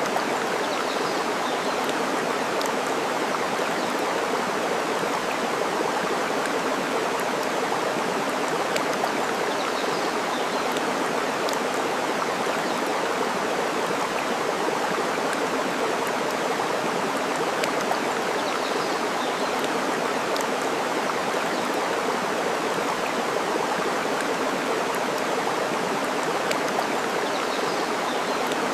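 Steady rush of flowing water, with faint crackles and pops of a burning wood fire. Faint high bird chirps come about every nine seconds.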